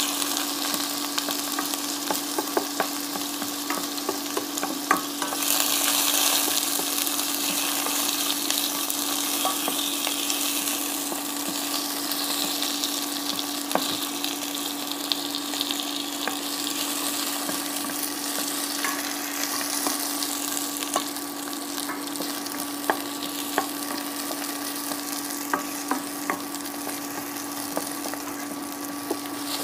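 Garlic, onion and tomato pieces sizzling in oil in a stainless steel pan, stirred with a spatula that scrapes and ticks against the pan now and then; the sizzle swells briefly about five seconds in. A steady hum runs underneath.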